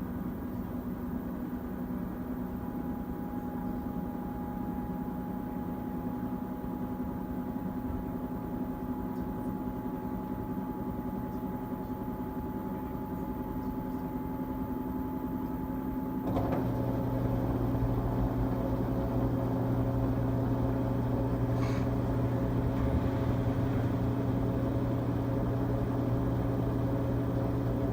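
LG Tromm WD-CR101C front-loading drum washing machine running in its quick-wash cycle with a steady mechanical hum. About halfway through, a higher whine drops out and the machine changes to a deeper, slightly louder hum.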